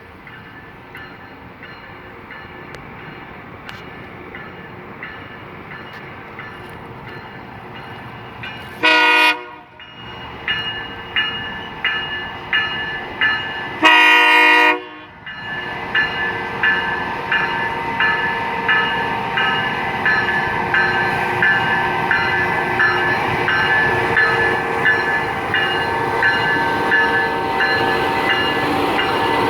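Locomotive with a Nathan K3LA five-chime air horn sounding two blasts: a short one about nine seconds in and a slightly longer one about five seconds later. Its E bell rings steadily from the first blast on, about one and a half strikes a second, while the train's rumble grows louder as it approaches.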